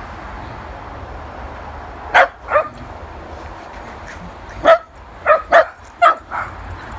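Dog barking in short, sharp single barks: two about two seconds in, then a quicker run of five barks through the middle and latter part.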